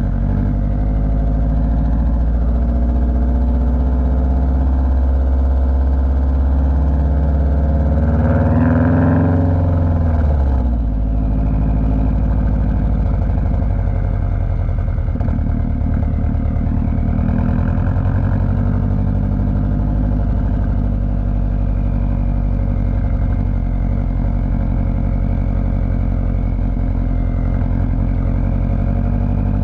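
Car engine drone while driving, heavy in the low end. About eight seconds in the revs climb briefly, then drop away sharply; after that the engine settles back to a steady cruise.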